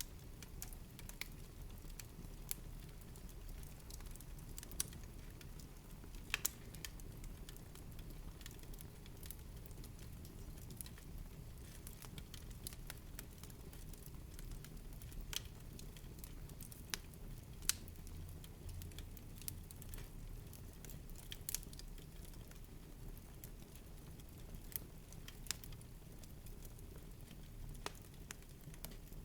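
Wood fire crackling in a fireplace: irregular sharp snaps and pops, some louder than others, over a low steady rumble of the burning.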